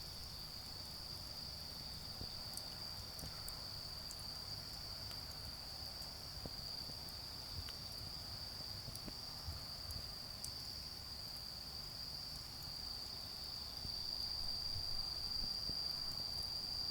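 Autumn insects singing in one steady high-pitched trill, a little louder near the end, with sparse faint ticks from a charcoal fire and a low hum of distant traffic underneath.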